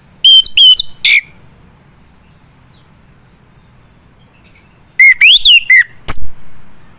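Male chestnut-capped thrush (anis kembang) singing: two loud bursts of quick, sweeping whistled notes, one shortly after the start and another about five seconds in.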